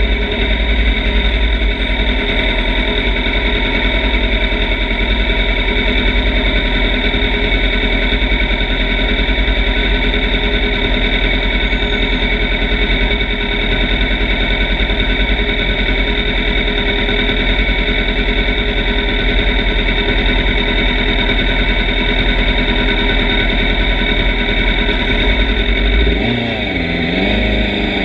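Motorcycle engine running at a steady speed under loud, distorted wind rumble on the microphone. About 26 seconds in, the engine note falls and then climbs again.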